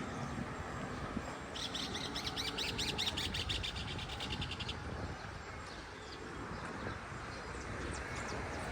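A bird giving a fast series of high chirps, about eight a second, for roughly three seconds, over a steady low outdoor rumble.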